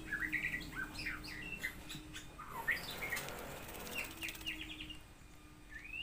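Songbird chirping: a quick series of short whistled notes sliding up and down in pitch.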